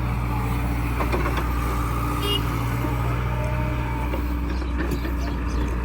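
Heavy diesel machinery engine running steadily at a low, even drone.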